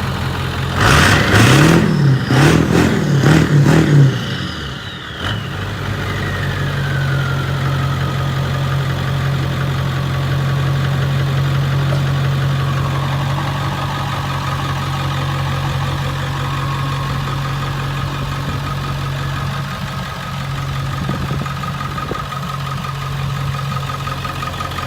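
An engine revs several times, then settles into a steady idle. A high whine falls away slowly over several seconds after the revving.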